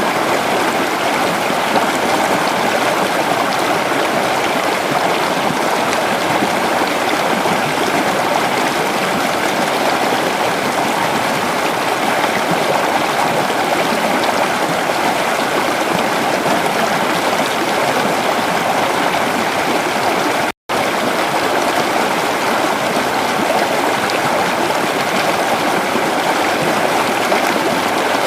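Creek water flowing in a steady, full rush. About twenty seconds in it cuts out completely for a split second, then resumes unchanged.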